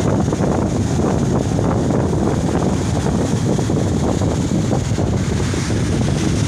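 Wind buffeting the microphone with a steady, heavy rumble, over the continuous rush of storm surf on the sea.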